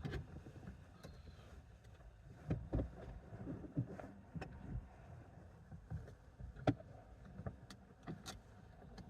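Handling noise as a seat cover is fitted over a car seat: fabric rustling with scattered light knocks and bumps.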